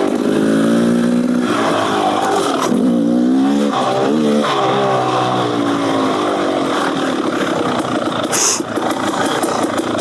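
Beta Xtrainer 300 two-stroke dirt bike engine, fitted with an FMF Gnarly exhaust, revving up and down under riding, its pitch rising and falling several times. A brief rush of hiss comes near the end.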